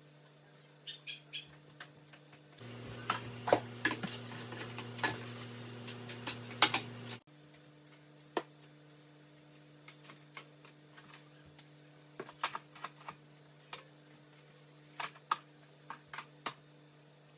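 Scattered small clicks and taps of things being handled and set down while cleaning, over a steady low hum. About three seconds in, a louder stretch of denser clatter lasts about four seconds and then cuts off suddenly.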